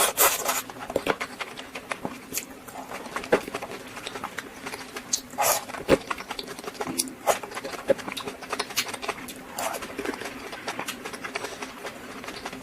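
Close-miked eating: chewing with wet mouth clicks and irregular crunchy crackles, a few bites louder than the rest.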